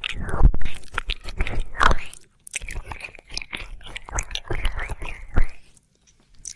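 Wet mouth and tongue sounds of ASMR ear licking close to the microphone: irregular smacks and clicks, with short pauses about two seconds in and near the end.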